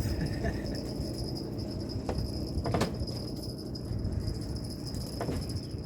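A steady high-pitched insect-like drone over a low rumbling background, with a few brief jingling rattles at about two, three and five seconds in.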